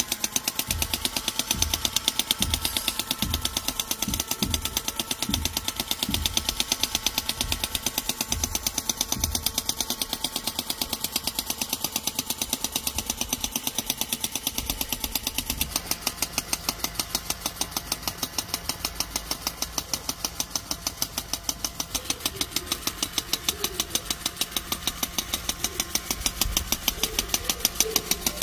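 Homemade metal mini tractor machine with grinder gears running, giving a steady, rapid rhythmic knocking of about three or four knocks a second, with heavier low thumps during the first several seconds.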